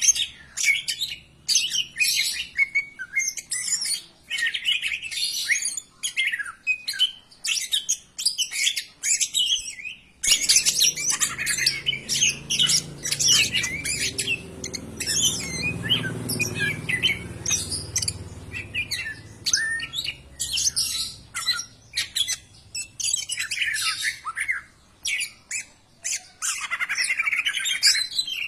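Green leafbird (cucak ijo) singing a fast, varied run of high chirps, whistles and squawks with hardly a pause. About ten seconds in the recording changes, and a low rumble runs under the song for roughly the next ten seconds.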